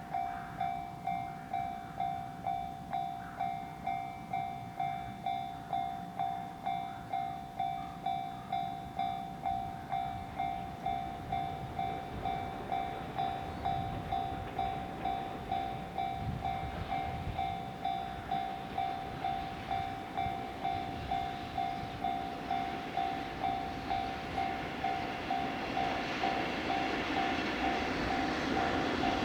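Railway level-crossing warning bell ringing in even pulses, about two a second, as an approaching freight train's rumble grows steadily louder toward the end.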